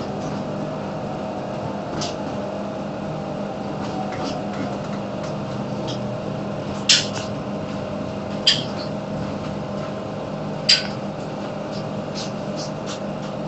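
Steady hum of a suburban passenger train heard from inside the cab as it rolls slowly through the station, with a few sharp clicks, three of them loud, in the second half.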